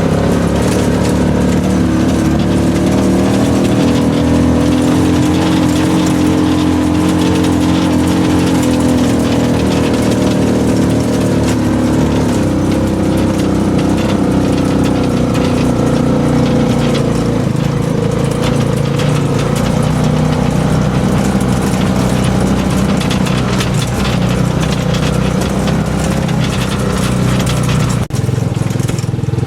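Small engine of a passenger buggy taxi running under load as it climbs a hill, its pitch rising and falling with the throttle, heard from on board.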